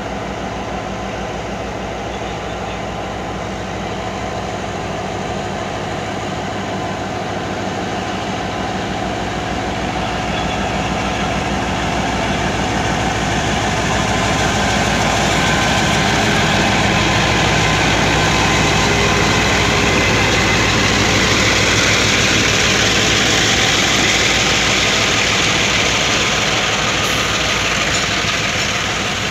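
Freight train locomotive running as the train departs, its sound growing louder through the middle and easing off slightly near the end.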